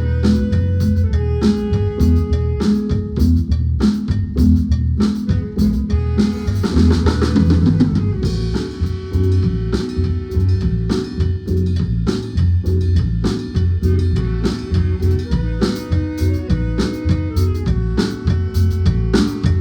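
Guatemalan marimba band playing live with a drum kit keeping a steady beat under held notes. A cymbal wash swells about six seconds in.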